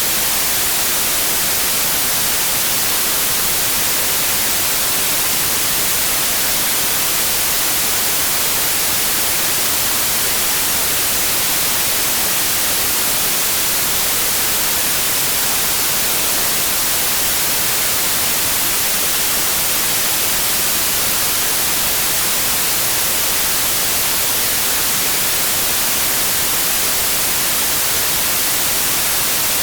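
Continuous white noise: a steady, even hiss with no change or break, brightest in the high pitches, played to lull a colicky baby to sleep.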